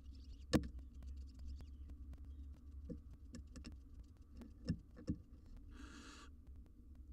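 Barn owls moving about in a wooden nest box: scattered taps, scratches and knocks, the loudest about half a second in, over a low steady hum. A short hiss comes about six seconds in.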